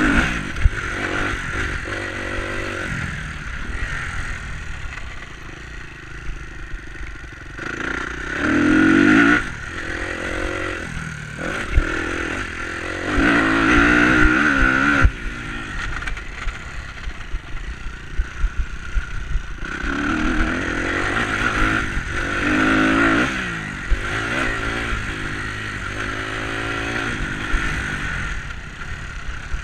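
Enduro dirt bike engine revving up and down over and over as the throttle is worked, with louder surges about a third of the way in, around the middle and again later. Scattered knocks and rattles run under it.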